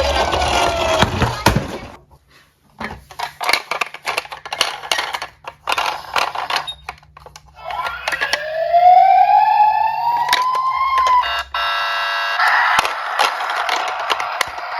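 Toy cars clattering with a quick run of sharp clicks. Then a siren wail rises in pitch, followed by a brief buzzer-like tone and a dense alarm-like ringing.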